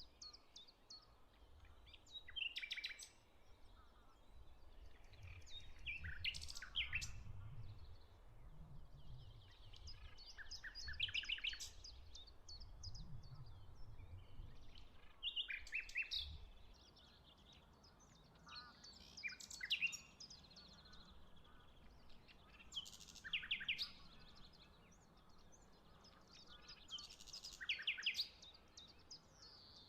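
Several wild birds chirping and calling in short repeated phrases, one after another, with a faint low rumble underneath during the first half.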